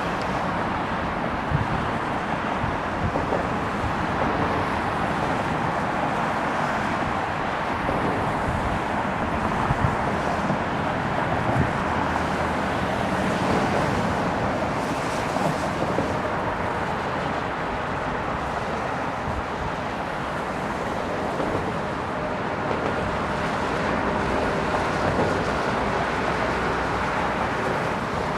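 Bombardier CRJ-900's twin turbofan engines heard from afar on approach and landing: a steady rushing noise, with faint whining tones in the second half, mixed with wind on the microphone.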